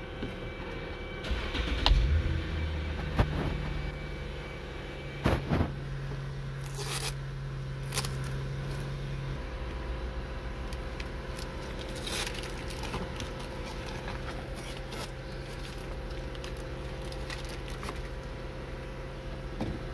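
Lexus GS350's 3.5-litre V6 starting by push button and then idling steadily. The idle steps down to a lower pitch about nine seconds in, with a few sharp clicks and knocks over it.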